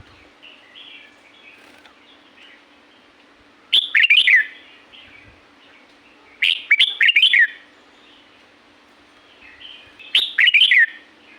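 Red-whiskered bulbul singing: three short, loud warbling phrases a few seconds apart, with softer chirps between them, over a faint steady low hum.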